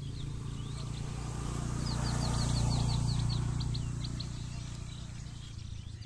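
Small birds chirping, with a quick run of about ten down-slurred chirps a couple of seconds in. Under them a low rumble swells to a peak around the middle and fades again.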